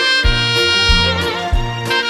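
Alto saxophone playing a slow melody in long held notes over a backing track with a steady bass beat.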